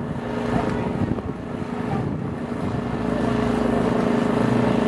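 Piston aircraft engine running with a steady hum, getting louder about three seconds in.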